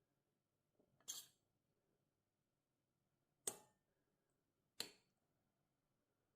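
Three short, sharp clicks or clinks of small objects being handled, in near silence: one about a second in, then two more close together a few seconds later.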